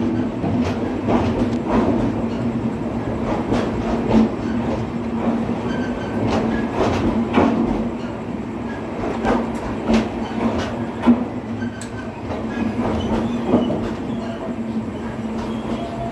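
Passenger train running along the track, its wheels knocking over the rail joints at irregular intervals over a steady low hum.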